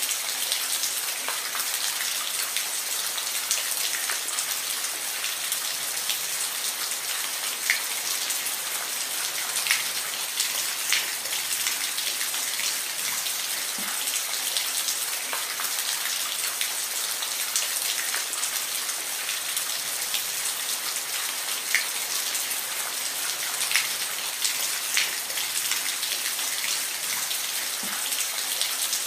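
Steady rain, an even hiss with scattered louder individual drops ticking on a hard surface.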